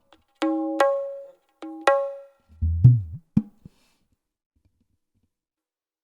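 Dangdut kendang hand-drum percussion. Two pairs of ringing high strokes are followed by deep bass strokes and one sharp final hit, and the pattern ends about three and a half seconds in.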